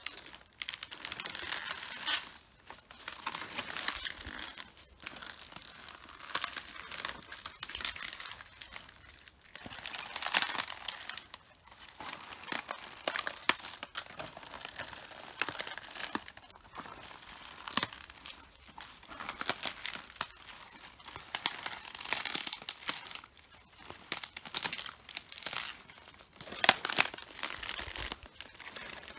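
Footsteps on red cabbage leaves: crisp leaves crunching, crackling and tearing underfoot in irregular bursts, one step after another.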